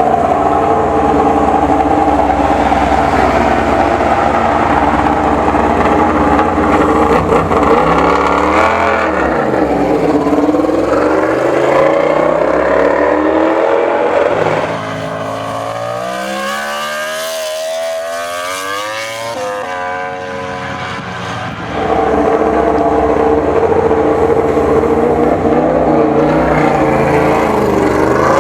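Yamaha YZR-M1 MotoGP racing motorcycle's inline-four engine running hard at high revs, the pitch dipping and climbing as it shifts and changes speed. It goes quieter for several seconds in the middle, with the pitch sweeping up and then down as it passes, and comes back loud near the end.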